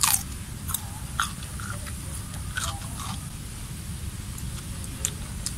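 Mouth sounds of a boy biting and chewing food: about six short, sharp wet smacks and crunches spread through, over a steady low rumble.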